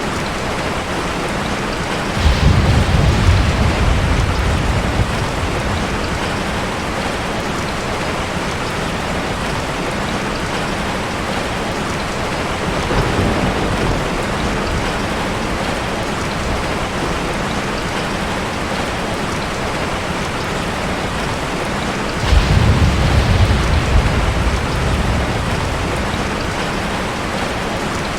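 Steady rain falling on a forest, with two rolls of thunder rumbling in, one about two seconds in and one near the end, each dying away over a few seconds.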